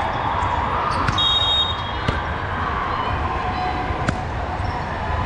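A volleyball being hit, a few sharp thuds spread over several seconds, with a brief high squeak about a second in, over the steady din of a gym hall.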